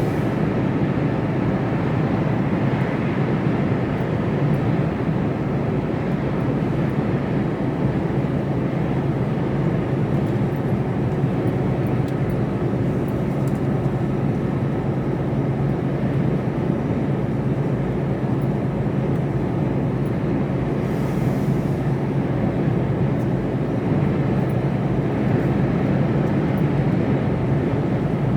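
Steady drone of a Mercedes Actros lorry on the motorway heard from inside the cab: a low engine hum with tyre and road noise, unchanging throughout.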